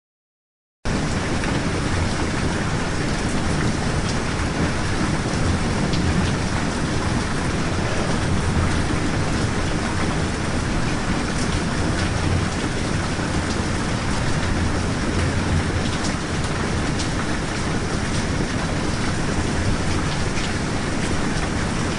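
Steady heavy rain ambience with a low rumble underneath. It cuts in suddenly from silence about a second in.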